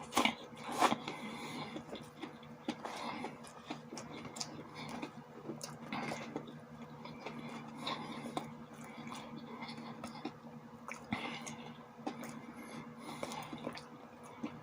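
Close-miked chewing and wet mouth sounds of a person eating a sausage with sauerkraut: irregular smacks and clicks, two louder ones within the first second, over a steady low hum.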